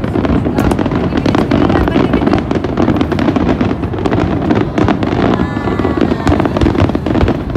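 Aerial fireworks going off in a dense, continuous run of bangs and crackles.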